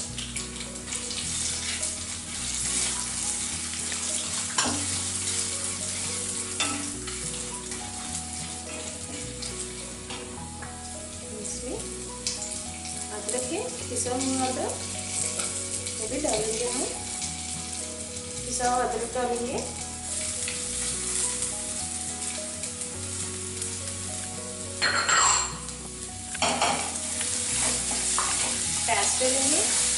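Cumin, urad dal, chana dal and cashews frying in hot oil in a kadhai, sizzling steadily, while a wooden spatula stirs them with a few sharper scrapes against the pan, the loudest about three-quarters of the way through.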